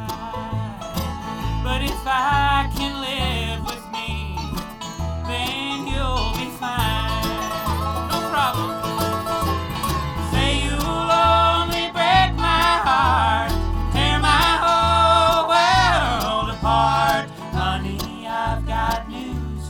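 Live bluegrass band playing an instrumental passage: banjo and guitar lines with sliding, bending melody notes over a pulsing bass line.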